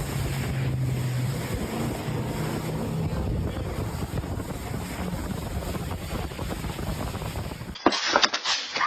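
Wind rumbling and buffeting on the microphone, with a low steady hum early on. About eight seconds in the sound cuts abruptly to a different recording with sharp knocks.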